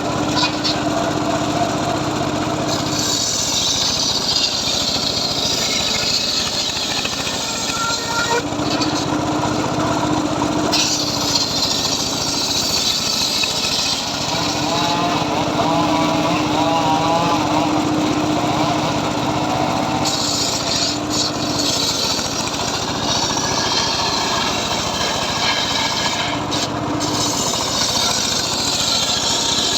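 Homemade circular saw running steadily while ripping teak logs; the blade's hiss rises during each cut and drops back between passes, several times over.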